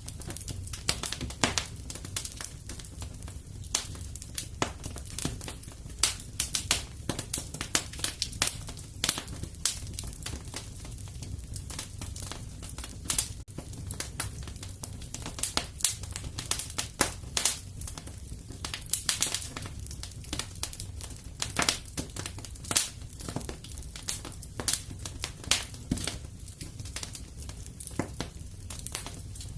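Wood fire crackling, with frequent irregular pops and snaps over a steady low rumble of the flames.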